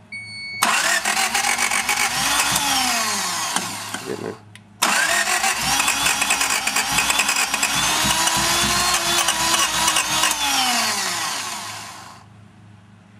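Honda 16-valve four-cylinder engine cranked twice, sputtering and half-catching each time, its pitch rising and then sagging away before it stops. This is a hard start: the ignition timing is being set by turning the distributor, and the engine wants to fire but won't keep running.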